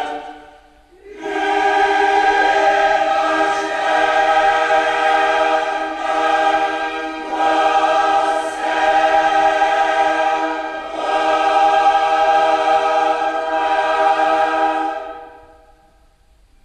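Background choral music: voices sing long, held chords in several phrases, dipping briefly near the start and fading out near the end.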